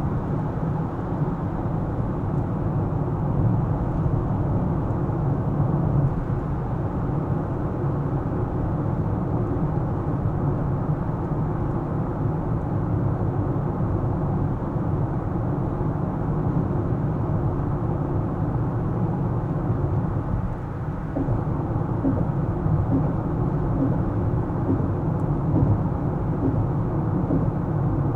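Car driving on city streets: a steady low rumble of tyres and engine, easing slightly for a moment about two-thirds of the way through.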